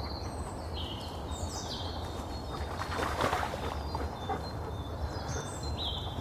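Songbirds singing repeated high trills and falling phrases over a steady low rumble, with a brief rustling noise about halfway through.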